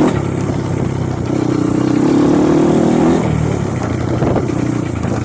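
Off-road trail motorcycle engine running under throttle, its pitch climbing for a couple of seconds and then dropping sharply about three seconds in as the throttle is eased off.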